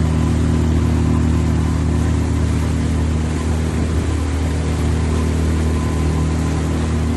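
Sailboat's auxiliary engine running at a steady speed, a constant low drone with a hiss of noise over it.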